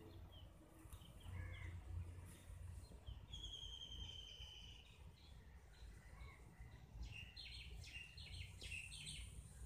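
Faint birdsong over a low background rumble: a rapid trill about three seconds in, then a run of short chirps near the end.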